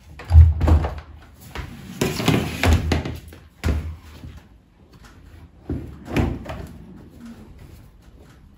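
Household handling sounds: a heavy thud at the start, a stretch of rustling and clatter around two to three seconds in, then several single knocks, like doors or objects being shut or set down.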